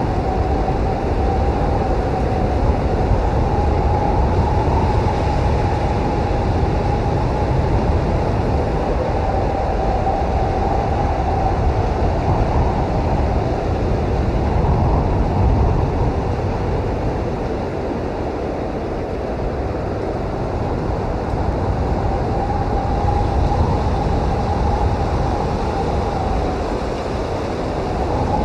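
Blizzard wind blowing hard: a steady deep rush with a faint whistling howl that swells and fades, strongest in the first half and again a little past two-thirds of the way through.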